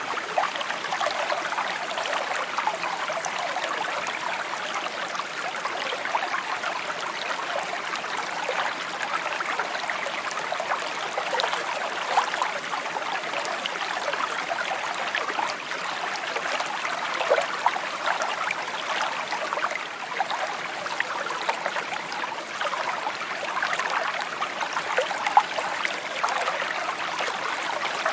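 Shallow stream babbling and trickling over stones, a steady flow with small splashes and gurgles.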